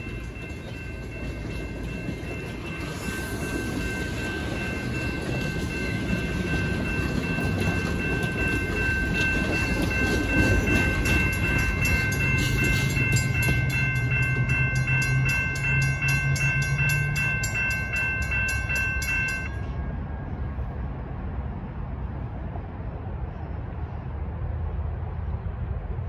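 Excursion train passenger cars rolling past a railroad crossing, wheels rumbling on the rails, while the crossing's warning bell rings steadily. The rumble fades as the train moves off, a low drone sounds for a few seconds past the middle, and the bell stops abruptly about twenty seconds in, leaving a faint low rumble.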